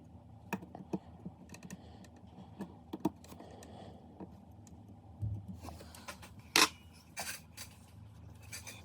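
Irregular clicks and light knocks of small hard objects being handled, the sharpest about two-thirds of the way through, over a faint steady low hum.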